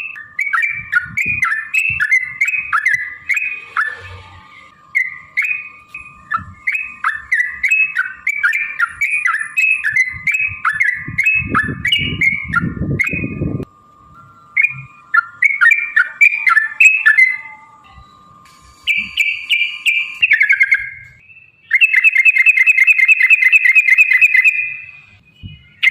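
Yellow-vented bulbul (trucukan) singing a long run of quick, bubbling chattering phrases, finishing with a fast even trill near the end.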